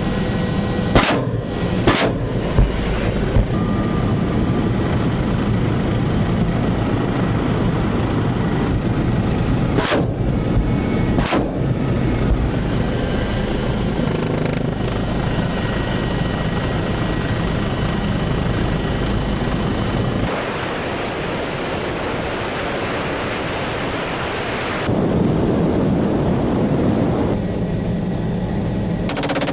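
Helicopter turbine and rotor noise, loud and steady, with a few sharp cracks about a second in, two seconds in, and around ten and eleven seconds in. The sound shifts abruptly about twenty and twenty-five seconds in, as between edited clips.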